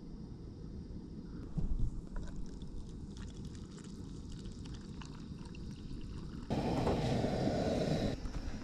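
Wind buffeting the microphone as a steady low rumble, with scattered light clicks and knocks. About six and a half seconds in, a louder rushing noise lasts under two seconds.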